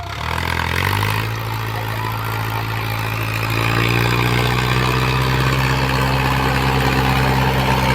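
Mahindra tractor's diesel engine revving up, its pitch climbing over the first second and then settling into a steady run, getting louder again about three to four seconds in as more throttle is given.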